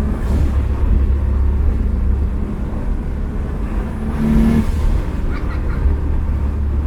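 Turbocharged 1JZ 2.5-litre inline-six in a Lexus LS400 running under way, heard from inside the cabin as a loud, steady low drone. About four seconds in there is a brief hiss.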